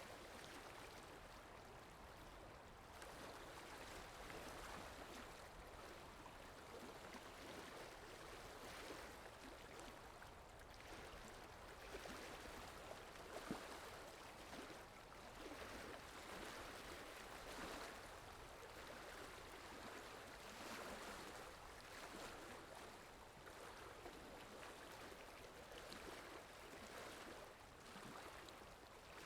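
Faint running water of a stream, a steady rush that swells and eases every few seconds, with one brief click about halfway through.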